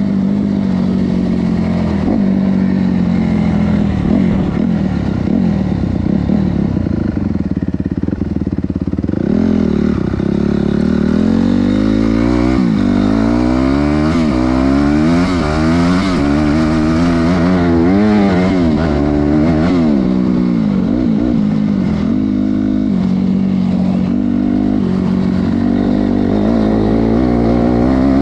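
Honda CRF250R dirt bike's single-cylinder four-stroke engine being revved hard, its pitch rising and falling over and over, most sharply in the second half.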